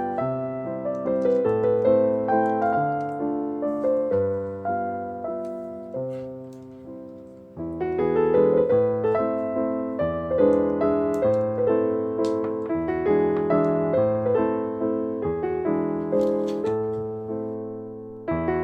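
Background piano music, a gentle melody over held bass notes, fading briefly near the middle before the playing picks up again.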